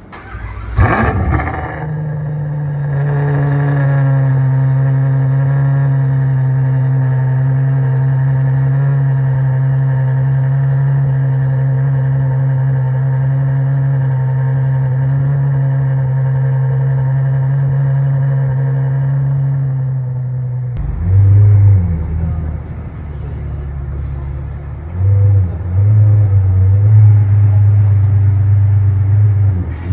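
Ferrari 812 Superfast V12 with a Novitec exhaust firing up with a sharp rev flare, then holding a steady, high cold-start idle. About 21 seconds in the idle drops to a lower, uneven rumble that swells louder twice, with the loudest stretch near the end.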